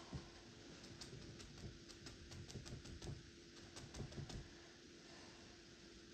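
Faint, irregular light tapping of a paintbrush dabbing yellow paint onto the canvas: a quick run of clicks that stops about four and a half seconds in.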